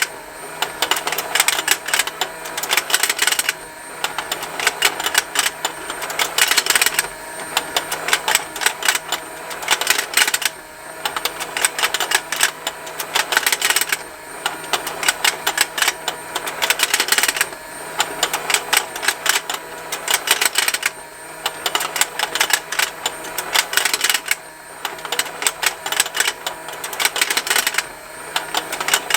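Plastic fishing-game toy rotating: its motor and gears make a fast, continuous ticking, and the plastic fish snap as they open and close. The clatter eases briefly about every three and a half seconds and then picks up again.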